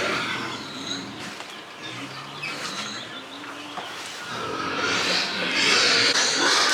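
Pigs calling: low grunts in the first half, then louder, higher-pitched squeals from about halfway through.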